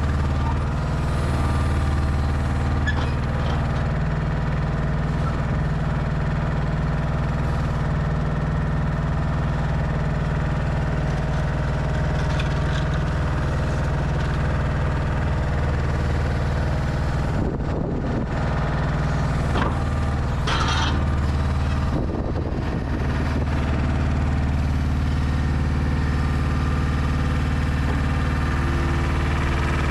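Mercedes Actros L truck's diesel engine running steadily at low revs, with a short hiss about two-thirds of the way through.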